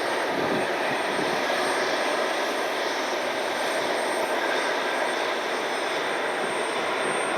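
Jet aircraft engines running, a steady rushing noise.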